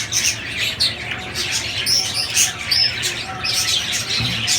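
A roomful of small parrots chattering, with many overlapping high chirps and squeaks.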